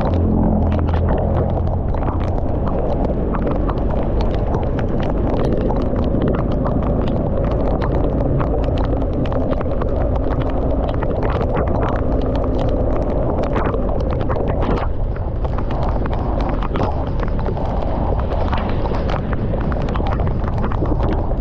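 Motorcycle moving through heavy rain: a steady low rumble with many irregular sharp taps, as raindrops strike the microphone.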